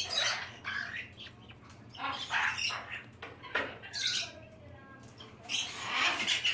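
Caique parrots squawking: a run of short, harsh screeches, several in quick succession with brief pauses between them.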